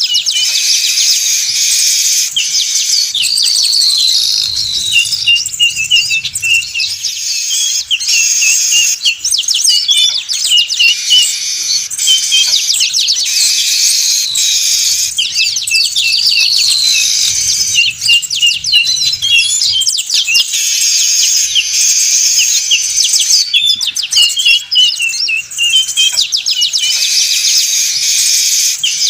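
A crowd of weaver birds (manyar) chattering busily, with many high chirps and quick trills overlapping. It is a lure recording for bird trapping, and the same stretch of calls comes round about every eight seconds as a loop.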